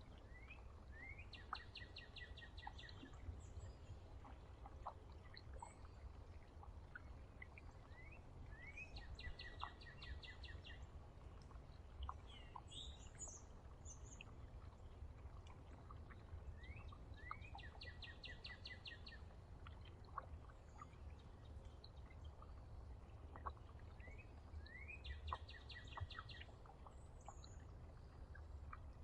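A songbird singing the same short song four times, about eight seconds apart: each is a few rising slurred notes followed by a quick, even trill, lasting about two seconds. Other small chirps come in between, over a steady low rumble.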